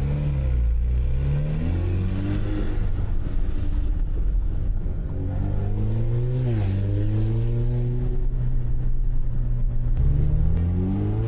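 Alfa Romeo Giulia with a Trofeo Ultimo aftermarket exhaust, revving under acceleration with a surprisingly deep note. The pitch rises and falls with the revs, with a brief sharp dip about six and a half seconds in.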